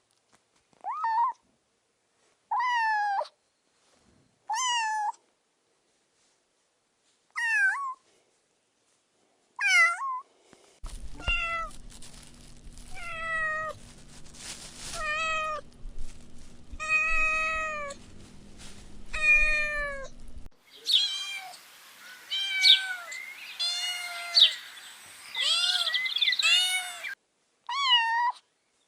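Short high-pitched cries from very young pets, each one falling in pitch: single cries at first, then a run of about one cry a second over a low hum, then several animals crying at once, then two single cries near the end.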